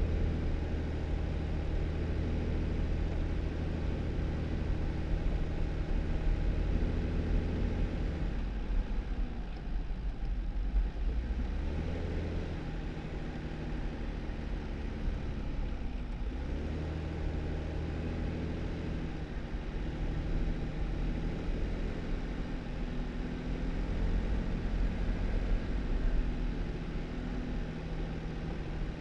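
2018 Jeep Wrangler's engine running at low road speed, with road noise from the tyres. The engine note eases off about a third of the way in and dips again briefly around the middle, then steadies.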